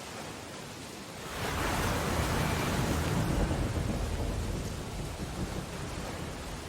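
Steady rain against window glass. About a second in, a deep rumbling swell from the storm outside rises, then slowly fades over the next five seconds.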